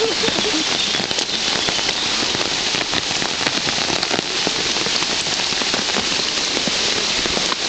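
Steady rain falling close by, a dense, even hiss made of many small drop impacts.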